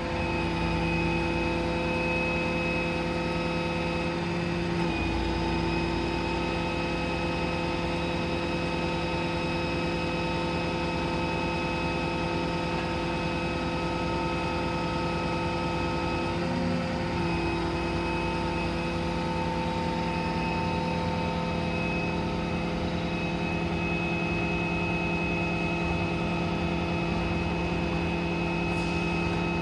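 Kenworth T270's PACCAR PX7 inline-six diesel running steadily to power the service crane's hydraulics: an even engine hum with several held tones. The tones shift briefly about five seconds in and again about sixteen seconds in.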